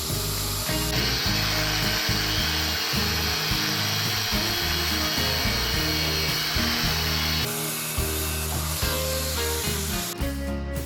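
A power tool cutting steel rebar for about six seconds, starting about a second in and stopping abruptly, over background music.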